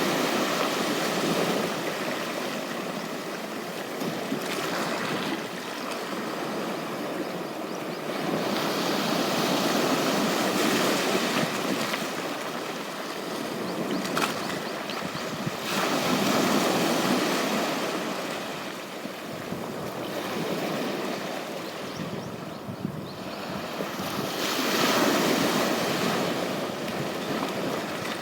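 Ocean surf washing onto a beach: a continuous rush of breaking waves that swells and eases in slow surges several seconds apart.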